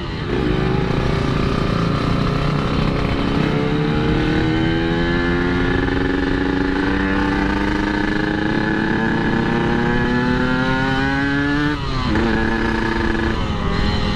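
Yamaha RX-King 135 cc two-stroke single-cylinder engine pulling under way: its pitch holds, then climbs steadily for several seconds as the bike accelerates in one gear, and drops sharply at an upshift near the end before pulling again.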